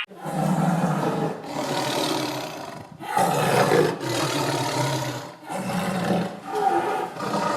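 A big cat roaring, a run of rough roars each a second or so long with short breaks between them.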